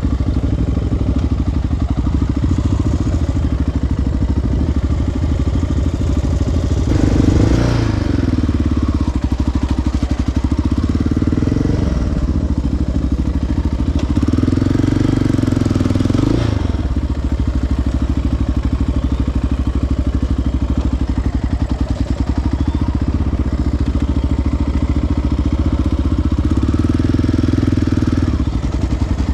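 Single-cylinder four-stroke sport ATV engine running steadily at trail speed, with the throttle opened up briefly three times, the engine note rising each time.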